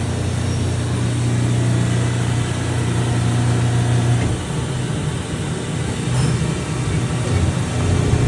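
Machine tool running with a steady low hum that eases and changes about four seconds in.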